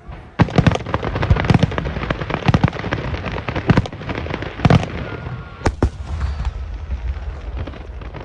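Aerial fireworks going off in a dense barrage of sharp bangs and crackles over a continuous low rumble, the bursts thinning out near the end.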